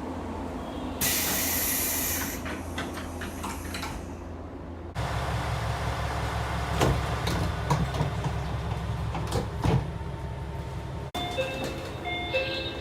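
Pneumatic doors of Japanese local trains closing, in three short takes: a loud burst of air hiss about a second in, followed by a series of clicks and knocks as the doors shut; then a steady low hum with several sharp thuds of doors closing; near the end, the repeating pitched beeps of a door-closing chime.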